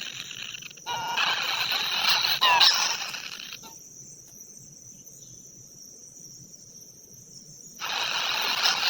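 Outdoor insect chorus, a dense high hiss, with a few short chirps just before the middle. It cuts out suddenly part way through and comes back abruptly near the end.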